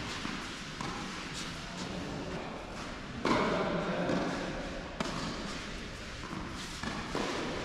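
Tennis ball struck by rackets and bouncing on an indoor court: a few sharp hits that echo in the large hall, the loudest about three seconds in and another about five seconds in.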